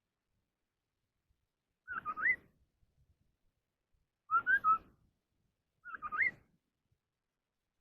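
A họa mi đất (scimitar babbler) singing in competition, giving three short whistled phrases a couple of seconds apart. Each phrase is a quick run of two or three clear notes that dip and then rise.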